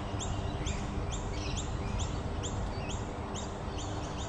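A bird calling: one high, short, falling note repeated evenly about three times a second.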